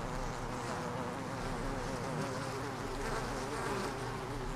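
Many honey bees buzzing together in a steady hum of overlapping, wavering wingbeat pitches.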